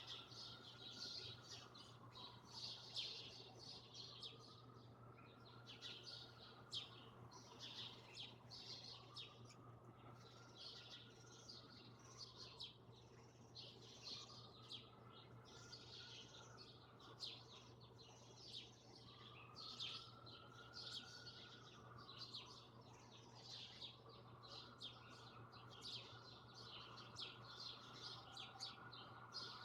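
Many small birds chirping continuously in quick, overlapping calls. Underneath runs a slow wail that rises and falls every few seconds, over a steady low hum.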